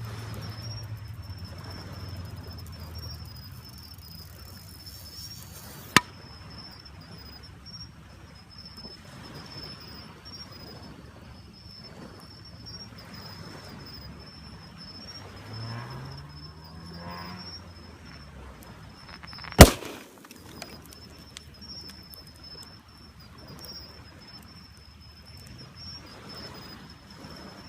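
Bonfire crackling under a steady high insect trill, with a sharp pop about six seconds in. About two-thirds of the way through, a gas canister heated in the fire bursts with one very loud bang.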